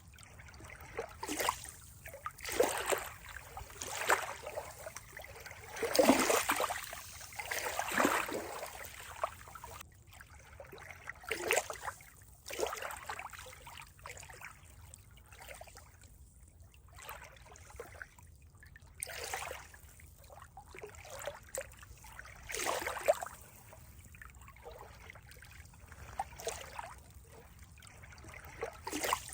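Water splashing and lapping in irregular surges a second or two apart, the biggest about six seconds in.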